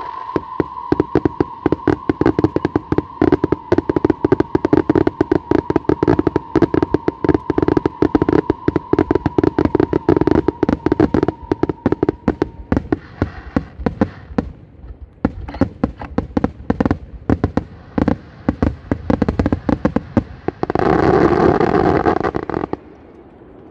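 Aerial fireworks going off in rapid, dense volleys of bangs, several a second, with a high steady whistling tone through the first half. Near the end comes a short, dense burst louder than the rest.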